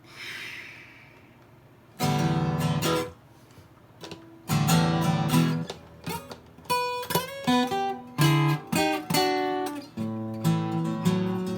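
Acoustic guitar playing an instrumental blues break. Strummed chords come in about two seconds in, then a run of single picked notes, and near the end a steady low repeating bass pattern.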